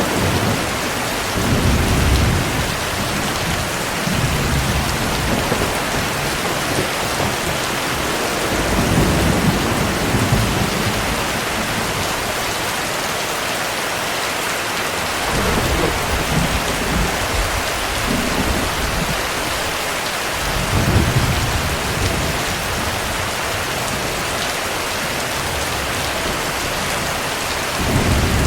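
Steady heavy rain, with low rumbles of thunder swelling up and fading every several seconds.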